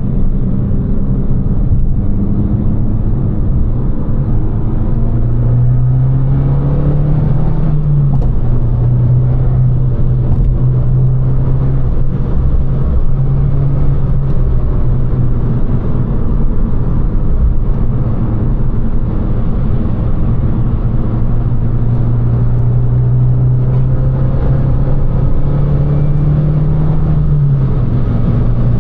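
Abarth 595 Competizione's 1.4 T-Jet turbocharged four-cylinder engine and Record Monza exhaust droning steadily on the move, over road noise. Twice the engine note climbs slowly for a few seconds, then drops back quickly.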